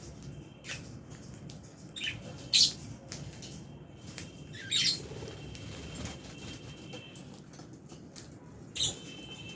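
Lovebirds in an aviary giving short, sharp chirps and squawks, scattered a few seconds apart and loudest about two and a half seconds in and again about five seconds in, over a low steady background hiss.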